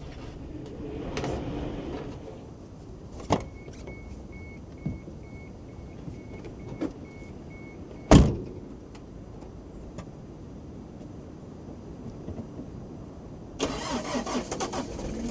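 Sounds around a vehicle over a steady low rumble: a few sharp clicks, a short electronic beep repeating about three times a second for several seconds, then one heavy thud, the loudest sound. Near the end comes a burst of rapid rattling clicks.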